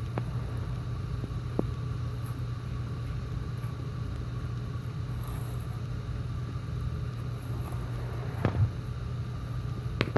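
A steady low mechanical hum, with a few soft clicks over it, one about a second and a half in and more near the end.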